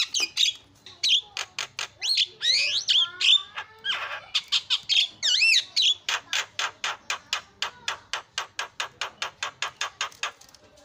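Javan myna singing: a jumble of clear whistles, rising and falling glides and harsh notes, then from about six seconds in a fast run of short repeated notes, roughly six a second, that stops just before the end.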